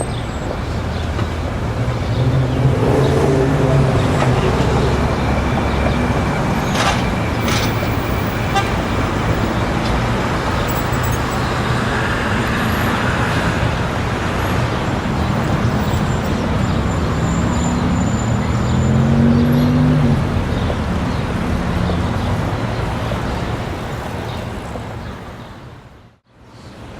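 City street ambience: a steady wash of traffic with vehicles passing and the murmur of a street crowd, and a few sharp knocks. The sound dips out briefly near the end.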